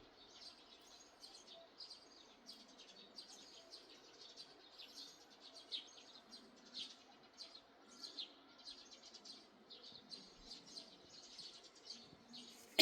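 Wild songbirds chirping and twittering, faint, with many short calls overlapping several times a second.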